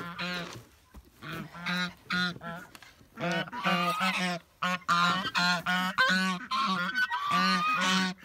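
Domestic geese honking, a run of short calls that thickens into near-continuous honking from about three seconds in.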